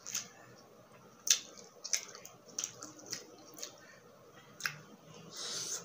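Close-miked eating sounds: wet mouth clicks and smacks while chewing grilled skewered street food, about eight sharp clicks at irregular spacing, then a short hiss near the end.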